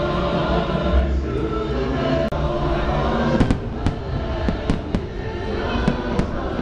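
Fireworks display going off: a string of sharp bangs and crackling reports through the second half, over a steady layer of music and crowd noise.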